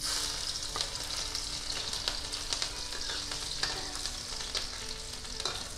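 Chopped garlic and green chillies frying in hot refined oil with cumin seeds in a kadhai: a steady crackling sizzle that starts abruptly as they go into the oil.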